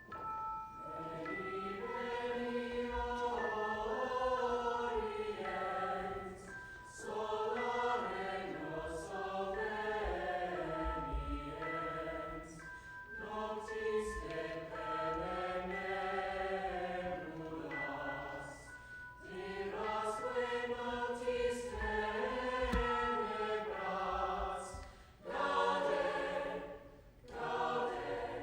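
High school choir singing in phrases several seconds long, with short breaks between them.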